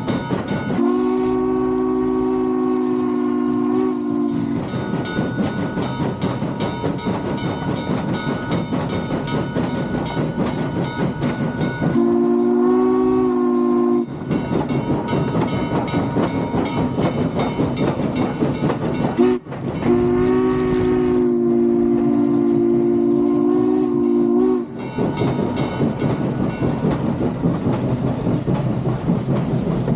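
Steam locomotive's chime whistle sounding three blasts, a long one, a short one, then a longer one, over the steady noise of the train running.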